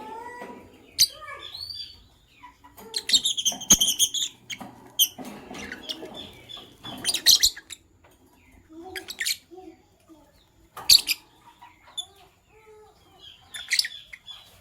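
Lovebirds chirping in short bursts of sharp, high chirps and squeaky calls, with short pauses between the bursts.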